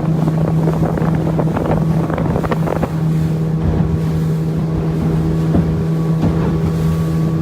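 Boat engine running at a steady drone, with wind buffeting the microphone.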